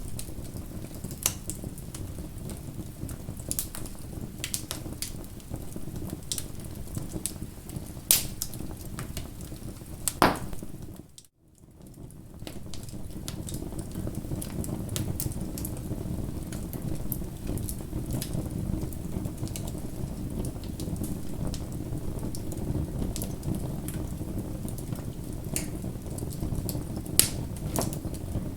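Bonfire crackling: a steady low rush of burning wood with scattered sharp pops, a few louder ones about 8 and 10 seconds in. About 11 seconds in the sound cuts out briefly, then fades back in.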